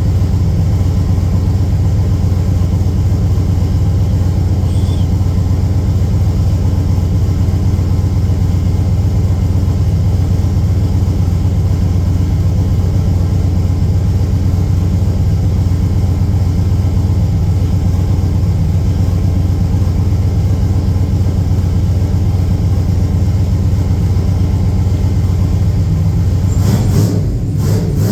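Turbocharged LS V8 in an OBS GMC pickup idling steadily after being fired up for the first time since its turbo build; the note changes and turns uneven near the end.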